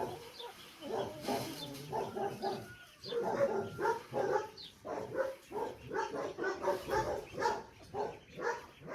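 A dog barking over and over in short calls, about two or three a second, louder from about three seconds in.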